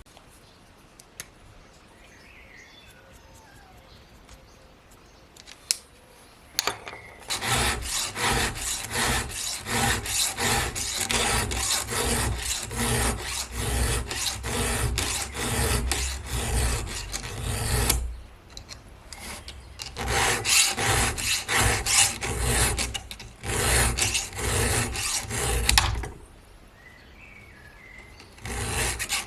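A file sharpening a chainsaw chain, in rhythmic rasping strokes. A long run starts about a quarter of the way in, then there is a short pause and a second, shorter run.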